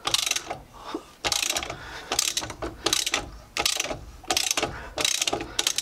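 Ratchet wrench clicking in repeated strokes, roughly one every three-quarters of a second, as it turns a seized locking wheel nut loose with a locking-wheel-nut removal tool.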